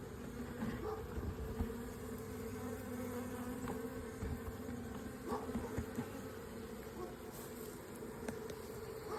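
A honey bee swarm buzzing as one steady hum while the bees move into a nuc box, with a few faint knocks.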